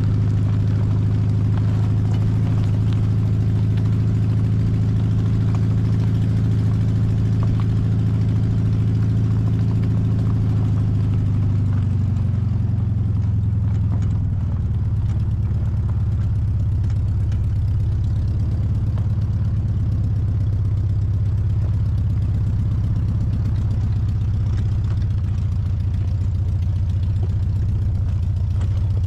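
1968 VW Baja Bug's air-cooled flat-four engine running steadily on the move, its revs dropping between about eleven and fourteen seconds in and then holding at the lower speed.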